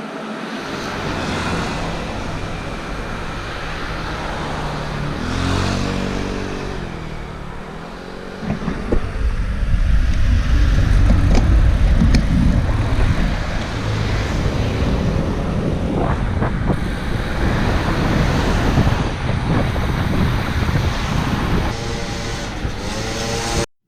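Road traffic noise: a motor vehicle's engine running close by, shifting in pitch. About eight seconds in, heavy low wind buffeting on the microphone takes over as the bike picks up speed.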